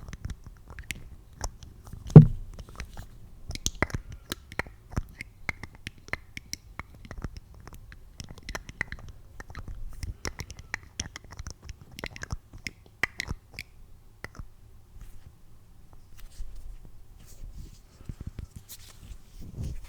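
Close-miked ASMR trigger sounds: many small, irregular clicks and taps, with one much louder thump about two seconds in. The clicks thin out in the last few seconds.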